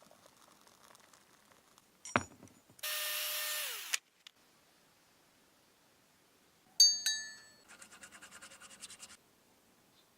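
Metalworking sounds on steel. About two seconds in comes a sharp ringing hit, then a power tool runs for about a second and winds down. Near the middle a single loud ringing metal strike is followed by a fast rattle of about ten pulses a second lasting over a second.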